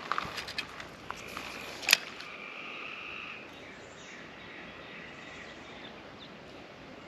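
Quiet outdoor ambience with a few sharp clicks in the first two seconds, the loudest about two seconds in, followed by a short, held, two-tone call like a bird's.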